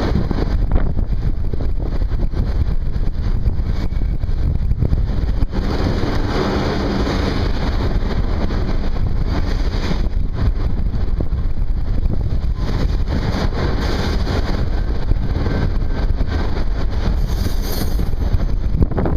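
Freight train rolling by with a steady, heavy rumble, and wind buffeting the microphone.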